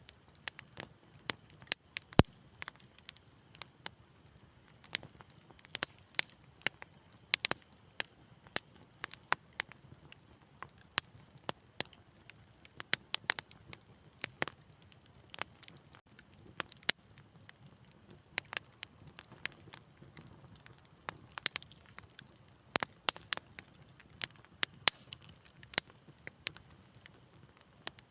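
Wood fire crackling: irregular sharp pops and snaps, several a second, some louder than the rest, over a faint low hiss.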